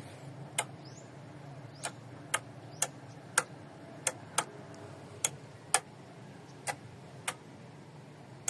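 Starter relay clicking as the start button is pressed again and again: about a dozen sharp clicks at uneven intervals, with no engine cranking. This is the sign the owners read as a drained battery.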